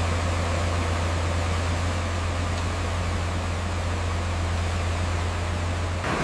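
Heavy paving machinery running steadily: a constant low engine drone under an even hiss, which changes abruptly near the end.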